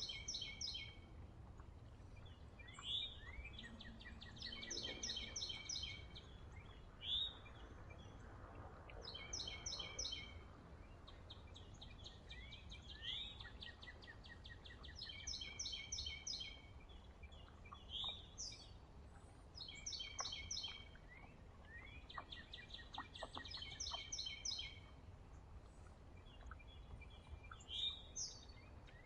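Songbirds calling at a feeder: a short sliding note followed by a rapid trill, repeated about every three seconds, over a steady low rumble.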